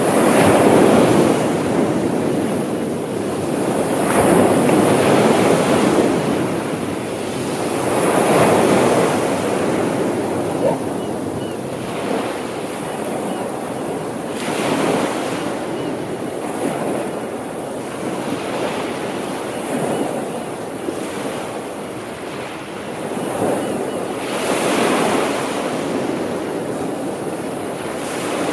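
Sea waves breaking on the shore, the surf swelling and easing every four seconds or so in a steady rhythm, with wind on the microphone.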